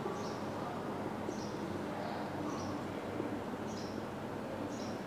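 A bird chirping: a short high chirp about once a second, over a steady low hum.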